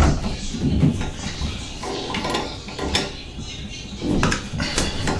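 Irregular metallic clinks and knocks of hand tools and parts being handled at a shower valve, with sharper knocks at the start, about three seconds in and near the end.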